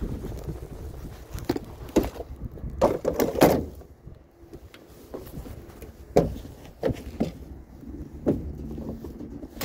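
Irregular knocks, bumps and clatters of salvaged items being handled and moved, about a dozen hits with the loudest cluster about three seconds in, over a low steady rumble.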